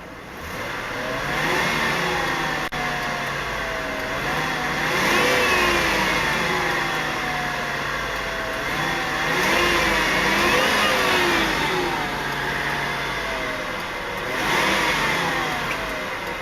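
2000 Lincoln Town Car's 4.6-litre V8 being revved about five times, the pitch climbing and falling back each time between idles.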